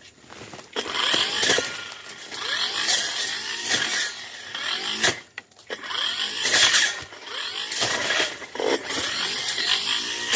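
Two-stroke Tanzu brush cutter running under throttle as it cuts through brush, its engine note rising and falling with the load. It drops off briefly about halfway through, then picks up again.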